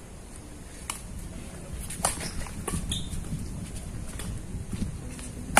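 Badminton rackets striking the shuttlecock during a rally: several sharp cracks, the loudest near the end, over the low rumble of strong wind buffeting the microphone.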